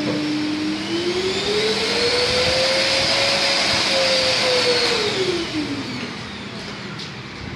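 Euroclean X-Force vacuum cleaner running with a steady rush of air. Its motor whine climbs in pitch over the first few seconds, holds, then drops back about six seconds in as the motor speeds up and slows again, in step with its power being turned up and down.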